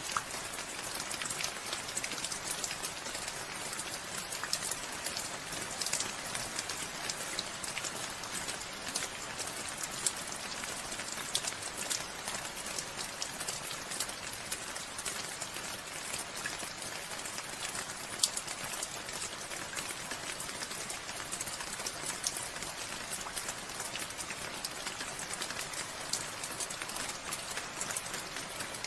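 Steady rain falling, a dense even hiss with many close, sharp drop impacts ticking through it.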